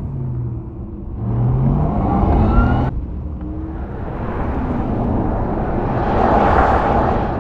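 Porsche Taycan Turbo S electric sports car driving: an electric-drive whine glides up and down in pitch over tyre and road noise. The sound cuts abruptly about three seconds in, and the second part swells into a rushing pass of tyre and wind noise.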